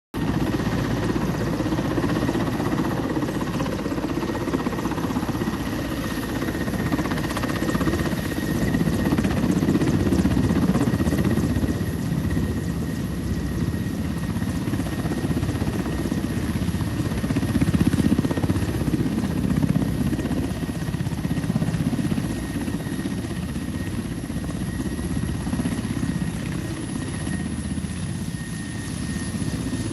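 Helicopter flying, its rotor beating fast and steady with a thin high whine above it; the sound swells and eases a little, loudest about a third of the way in and again past the middle.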